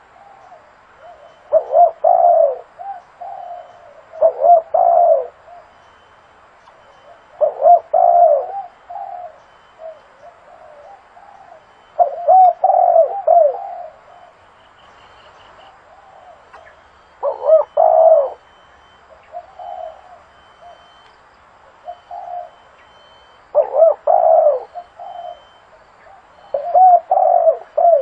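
Spotted dove cooing: loud phrases every few seconds, with softer coos between them.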